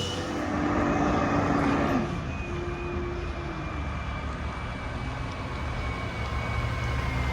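Mack garbage truck's diesel engine held at raised revs, then dropping back to a steady low idle about two seconds in, with a thin high whine over it.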